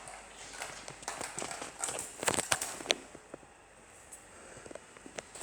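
A budgie pecking at and handling a clothes peg: an irregular run of small clicks and taps, densest and loudest about two to three seconds in.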